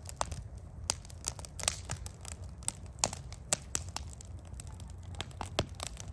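Wood campfire crackling, with irregular sharp pops and snaps from the burning wood over a steady low rumble.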